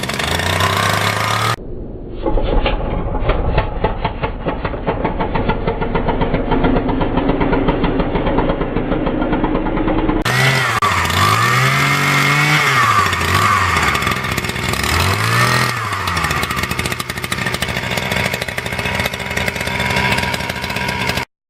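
Small petrol engine of an earth auger running, heard in several cut-together takes. In the last take the engine speed rises and falls twice as it is throttled up and back, and it cuts off abruptly near the end.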